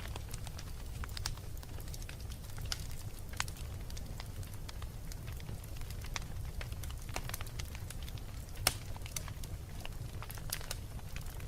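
Wood fire burning in a fireplace: a steady low rumble of flames with irregular sharp crackles and pops, one louder pop a little before the end.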